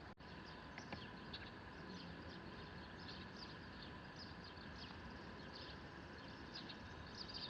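Faint outdoor ambience: small birds chirping again and again over a steady background hiss.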